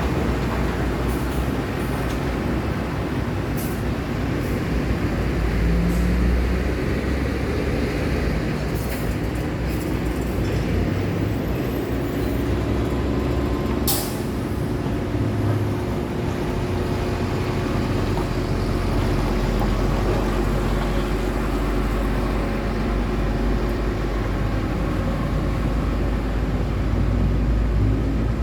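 Steady city road traffic, with the engines and tyres of passing trucks and cars making a continuous deep rumble. A heavy vehicle's engine holds one pitch through the middle, one sharp brief sound comes about halfway through, and engines rise in pitch near the end.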